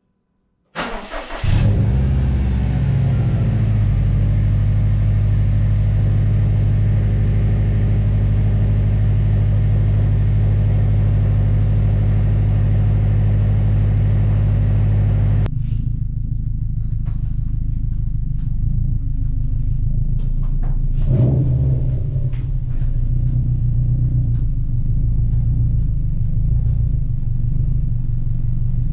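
Subaru STi's flat-four engine cranked by the starter and catching about a second in, then running at a steady idle. About halfway through the sound changes abruptly, and the engine carries on running with scattered light clicks.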